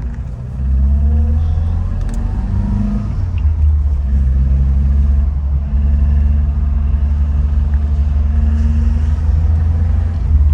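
A 1983 Toyota Corolla KE70's four-cylinder engine running while the car is driven: a steady low drone whose pitch holds for stretches and shifts, with a brief drop about half a second in and a change about halfway.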